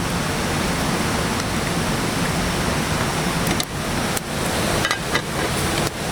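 Steady, loud rushing noise of water, as of heavy rain or fast-flowing water.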